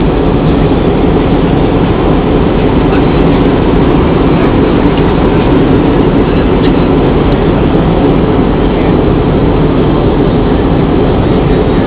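Steady roar of jet engines and rushing air heard inside an airliner's passenger cabin in flight.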